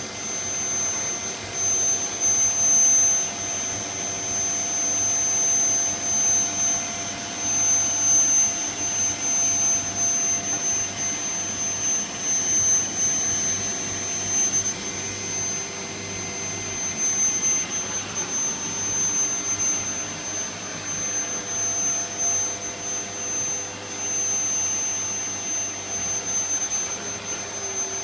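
Vacuum cleaner running steadily: a rushing air noise with a high-pitched motor whine, its loudness swelling and easing a little.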